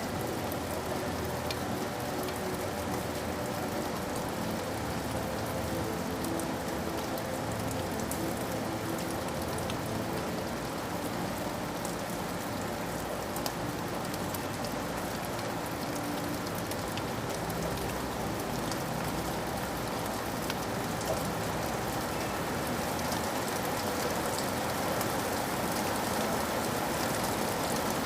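Steady rain falling, an even patter with scattered individual drops ticking.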